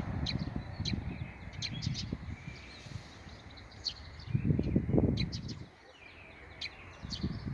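Small birds chirping, many short high chirps scattered irregularly, over a low rumbling noise that swells a little past halfway and drops away briefly near the end.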